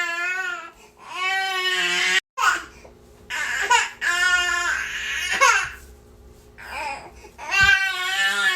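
Infant crying: a run of high-pitched wails, each lasting one to two seconds or so, broken by short pauses for breath.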